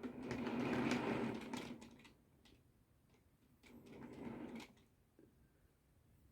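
OO gauge model train running on the track, its small electric motor whirring with clicks from the wheels on the rails. It is loudest for about two seconds at the start and swells again briefly about four seconds in, as it passes close by.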